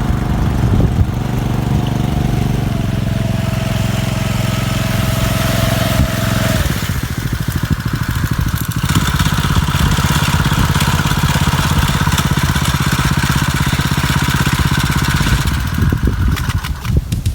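Fishing boat's engine running loudly and steadily; its note changes about six and a half seconds in, dropping into a denser, rougher running sound.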